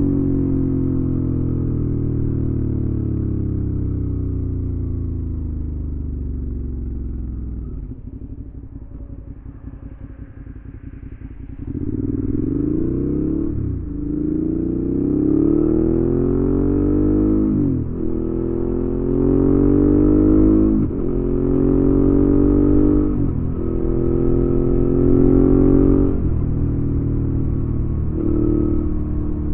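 Suzuki V-Strom 650's V-twin engine through a Delkevic aftermarket exhaust, on the move. It winds down with falling pitch, goes quieter and lower for a few seconds, then pulls hard, its pitch climbing and dropping back again and again as it shifts up through the gears.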